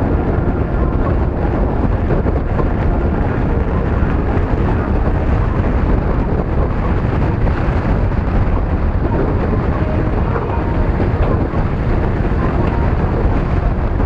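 Steady rush of wind buffeting the microphone, with road noise, during a ride on a moving bike.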